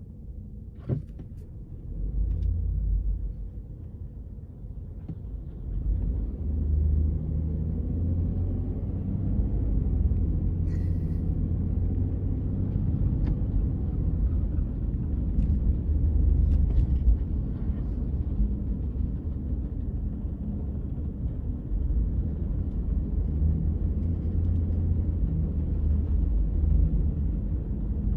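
A car driving, with a steady low rumble of engine and road noise and a few faint clicks.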